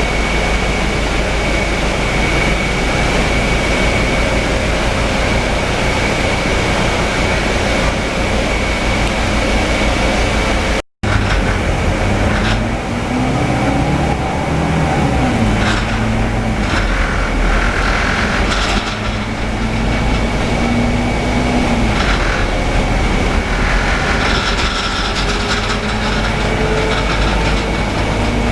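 Interior noise of a Scania city bus under way: a steady engine and road rumble, which cuts out for an instant about eleven seconds in. In the second half the engine note rises and falls as the bus changes speed, with scattered rattles.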